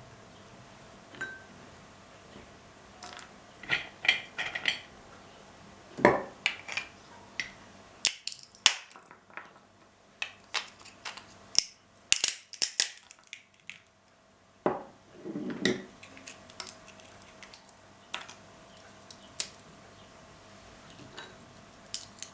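Irregular small clicks, taps and clinks of objects being handled on a table, with a couple of longer scraping or rustling sounds about six seconds in and again around fifteen seconds.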